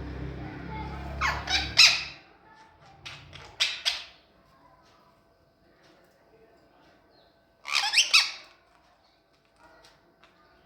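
A parrot giving short, harsh squawks in clusters: a few about a second in, more around three to four seconds, and a loud pair near eight seconds. A low steady hum sounds under the first calls and stops about two seconds in.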